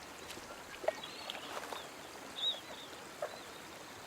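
Crane colts peeping softly: a few short, high, arching chirps about once a second, with small ticks and taps from foraging in mud over a soft steady hiss.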